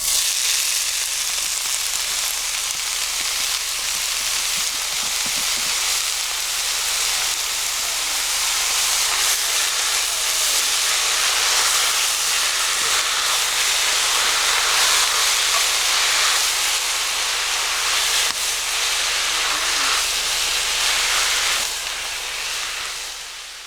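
Steady sizzling hiss of food frying in hot oil, with faint small pops, fading out near the end.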